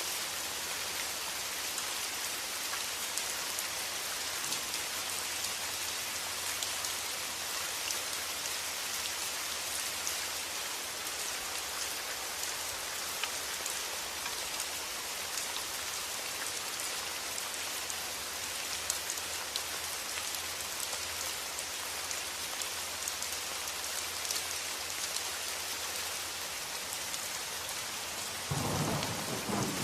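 Steady rain falling, an even hiss with scattered drop ticks. Near the end a low rumble of thunder begins.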